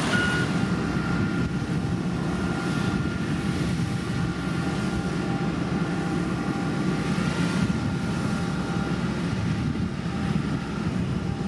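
Heavy diesel earthmoving machinery running steadily under load, a deep continuous engine rumble, with a last reversing beep right at the start.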